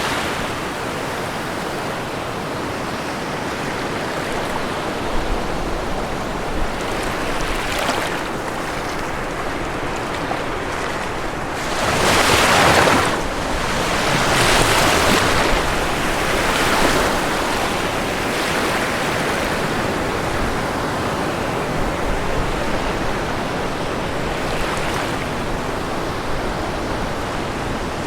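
Ocean waves washing onto a shore in a steady wash of surf. A little under halfway through, three waves break louder one after another, then the wash settles back.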